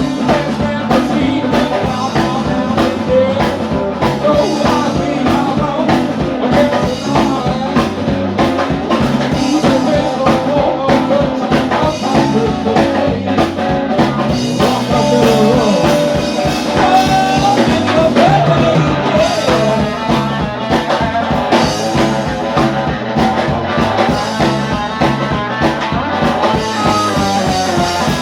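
A blues-rock band playing, with a steady drum-kit beat and guitar.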